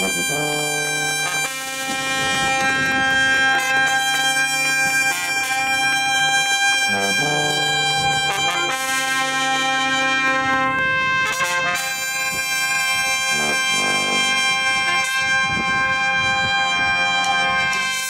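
Brass band playing a tune in held chords, the notes changing every few seconds.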